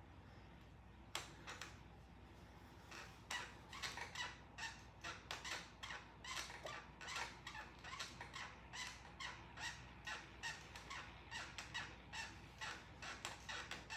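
Stationary exercise bike squeaking rhythmically with each pedal stroke, about two to three squeaks a second, picking up into a steady rhythm about three seconds in.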